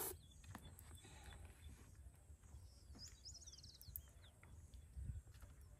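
Near silence with a faint low rumble. A bird gives a brief high chirping call about three seconds in.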